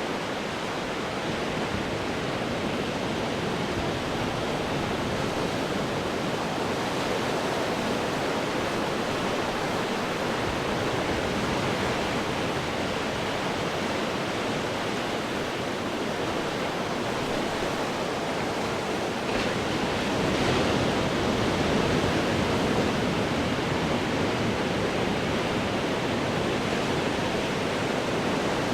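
Ocean surf breaking on rocks: a continuous rushing wash of water that swells louder about two-thirds of the way through as a bigger wave breaks.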